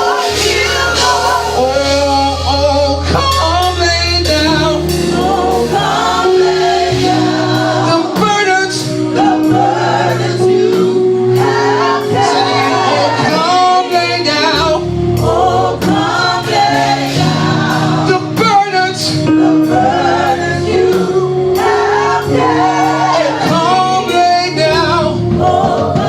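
Live gospel worship music: singers with a choir over keyboard chords, bass and drums, a slow steady beat.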